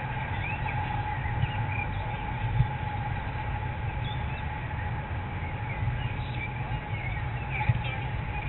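Birds chirping repeatedly over a steady low rumble, with a couple of brief thumps.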